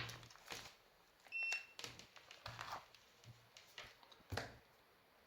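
Scattered clicks and short scrapes of the scooter's lithium-ion battery pack and tools being handled while it is opened, with one short high electronic beep about a second and a half in.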